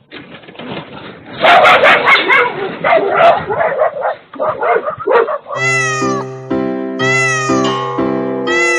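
A cat meowing loudly over and over. Music with held notes comes in about five and a half seconds in.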